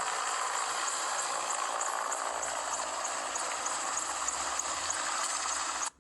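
Mi-17 helicopter running, a steady rushing engine and rotor noise with a faint even pulsing. It cuts off abruptly at the end.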